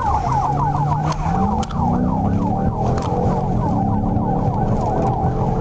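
Police cruiser siren on a fast yelp, about four sweeps a second, with the cruiser's engine under it rising in pitch about a second in as it accelerates during a high-speed pursuit.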